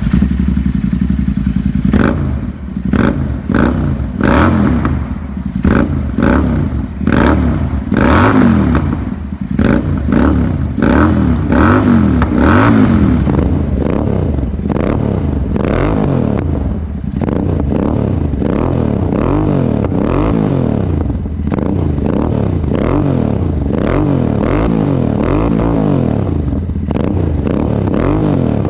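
Royal Enfield Interceptor 650's parallel-twin engine through an aftermarket slip-on exhaust with dual mufflers, revved in quick throttle blips about once a second for the first half. It then runs steadier and a little quieter, with smaller swells in revs.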